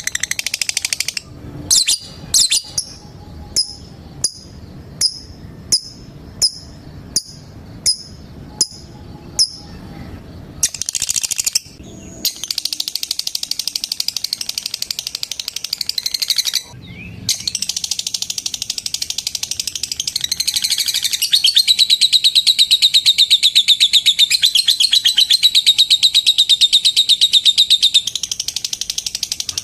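Lovebird giving sharp single chirps about one every 0.7 seconds. About twelve seconds in it breaks into a long, rapid, unbroken chattering trill, the 'ngekek' song, which grows louder from about twenty seconds in.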